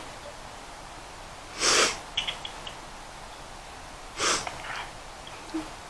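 A person's two short, sharp breaths through the nose, like snorts, about two and a half seconds apart, over a low steady hiss.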